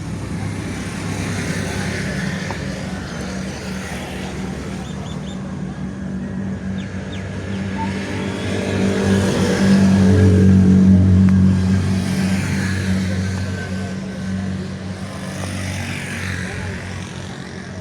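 Ford 4600 tractor's three-cylinder engine running steadily, growing louder about halfway through and then easing back.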